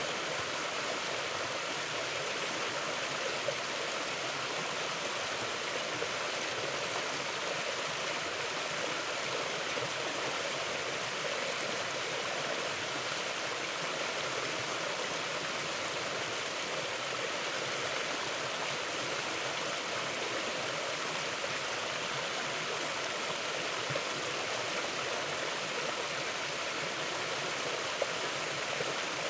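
A mountain river flowing: steady rushing water over rocks, with no change in level.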